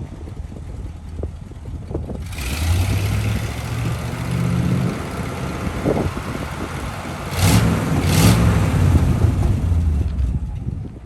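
1974 Ford F600 grain truck's engine running just after starting: idling, revved up about two seconds in, and revved harder again around seven seconds in, before dropping back toward idle near the end.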